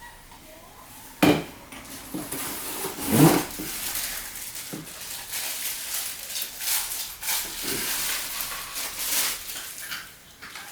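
Plastic vacuum parts and their packaging being handled during unboxing: rustling and crackling, with a sharp knock about a second in and a louder clatter around three seconds in.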